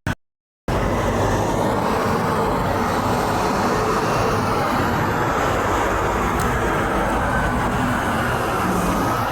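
Steady noise of heavy road traffic, semi trucks rolling past, with no clear horn blast. The sound cuts out completely for about half a second just after the start, then returns.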